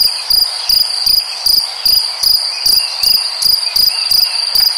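Cricket chirping: a high, even trill pulsing in a steady rhythm, about two to three chirps a second.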